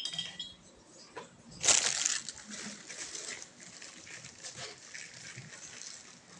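Handling noise during bike assembly: scattered clicks and knocks, with one loud rustling burst about two seconds in.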